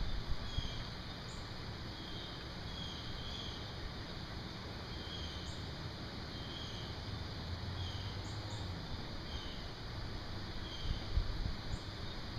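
Outdoor ambience after rain: a short high chirp repeats about once a second over a steady low rumble and hiss, with a few fainter, higher chirps now and then.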